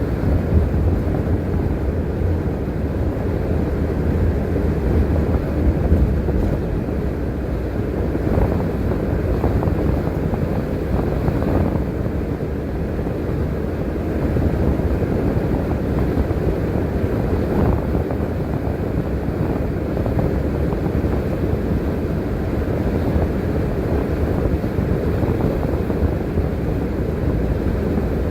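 Bus being driven along the road: a steady low rumble of engine and tyre noise.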